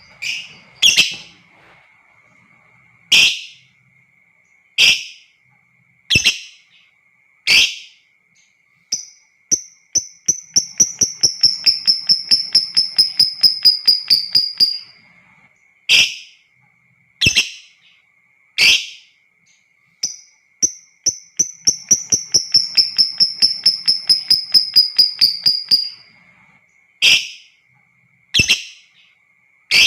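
Lovebird calling: sharp single shrieks about every second and a half, broken twice by a long rapid chattering trill, the 'ngekek', lasting about five seconds and sliding slightly down in pitch. A faint steady high tone runs underneath.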